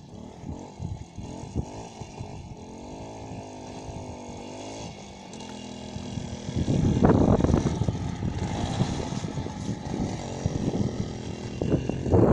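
Motorcycle engine running with its pitch wavering, then getting much louder about halfway through as the bike is ridden off.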